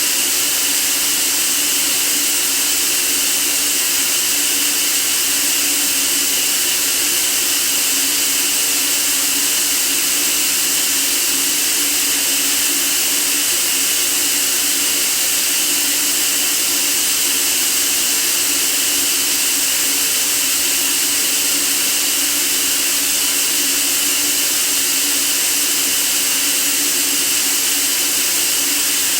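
Steady white noise: an even, unchanging hiss, strongest in the high range, with a faint low hum beneath it.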